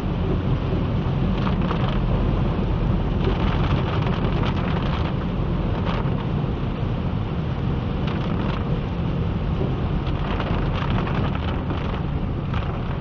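Heavy rain falling steadily, over a constant low rumble, with brief surges in the hiss every second or two.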